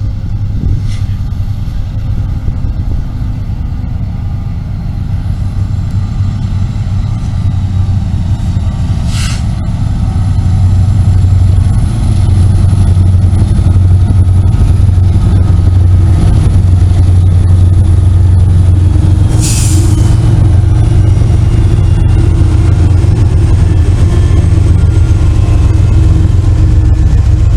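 Loaded freight train rolling slowly up a grade, a steady low rumble and drone that grows louder about ten seconds in. A few brief sharp sounds cut through it, one near the start, one about nine seconds in and one about twenty seconds in.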